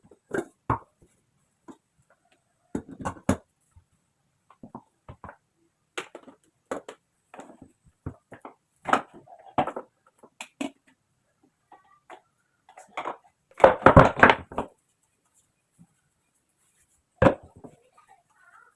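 Irregular knocks, taps and clatter of groceries and kitchen containers being handled and put away, with a denser burst of clattering about fourteen seconds in.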